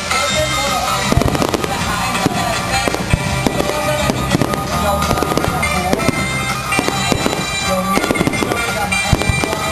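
Fireworks bursting in a dense, continuous volley of bangs and crackles, with music playing underneath.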